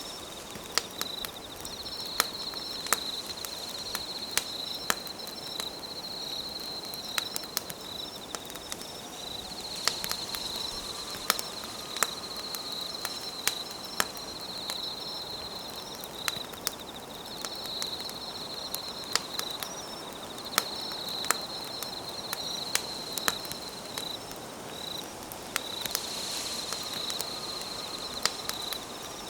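Campfire crackling, with sharp irregular pops, over insects trilling in repeated high-pitched phrases of a couple of seconds each and a fainter, faster chirping above them.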